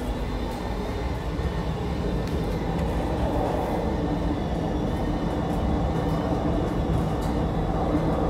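MTR C-Train electric multiple unit running between stations, heard from inside the carriage: a steady rumble of wheels on rail with a traction-motor hum that grows a little louder about three seconds in.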